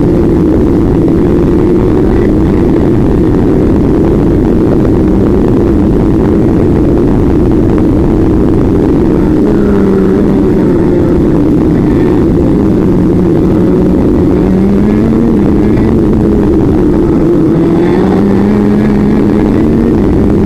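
Motorcycle engine running on the move at a fairly steady speed, its pitch drifting up and down a little, over heavy wind rush on the microphone.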